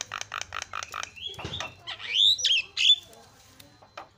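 Javan myna singing: a quick run of short, harsh chattering notes, then loud whistled notes that glide up and down about two seconds in.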